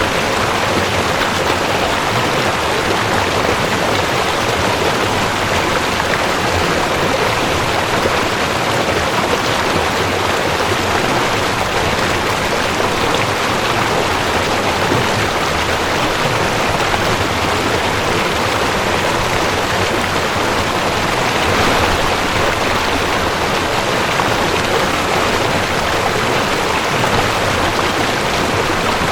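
Cold mountain stream rushing over rocks: a steady, even rush of flowing water.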